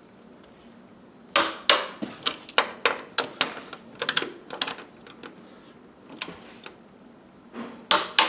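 A string of sharp metallic clicks at uneven spacing, starting about a second in and running for about three seconds, with one more later and a few near the end: a ratchet wrench working a seat belt anchor bolt as it is tightened.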